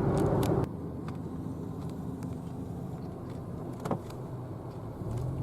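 Car driving heard from inside the cabin: a steady low road and engine rumble that drops in level about a second in, with a single faint click near the middle.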